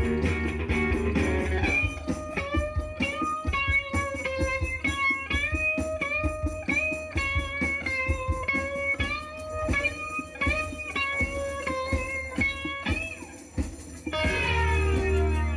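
Live electric guitar lead played at a bar gig: a fast run of single notes with string bends, mostly on its own, with the full band coming back in near the end.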